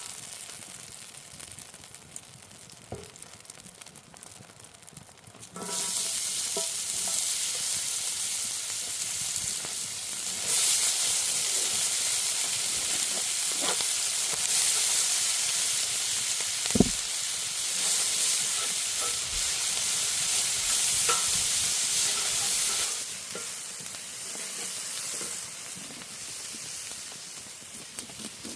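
Chicken frying in hot oil. A loud sizzle starts suddenly about five seconds in and grows louder a few seconds later, with a single sharp knock midway, then eases to a quieter sizzle near the end.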